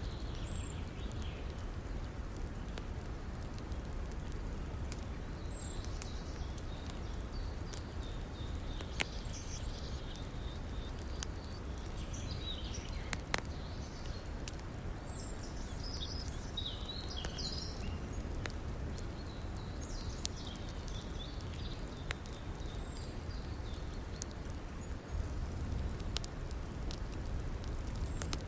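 Wood fire crackling with scattered sharp pops, one louder about halfway through, over the steady rush of a river, with birds chirping on and off.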